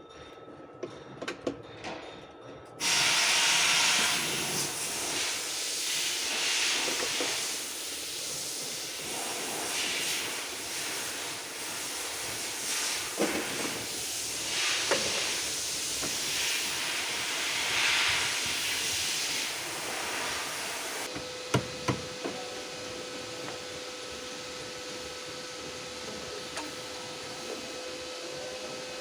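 A loud, uneven hiss that starts suddenly about three seconds in and drops away about twenty-one seconds in, leaving a fainter steady hum with a couple of clicks.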